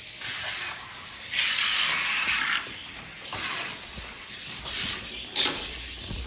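Die-cast toy car running down a track, its wheels giving a rolling hiss in several stretches, loudest for about a second early on. A sharp click comes near the end.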